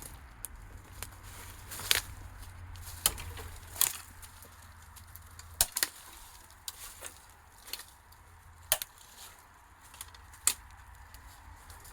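Footsteps through dry brush: twigs and sticks snapping and crackling underfoot in scattered sharp cracks, over a low steady rumble.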